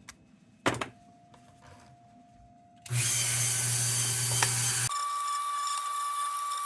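Handheld rotary tool switched on about three seconds in and running at a steady speed. About two seconds later its sound changes abruptly to a steady high whine with a hiss, as the small bit or wire wheel scrubs paint and primer off the lantern's metal.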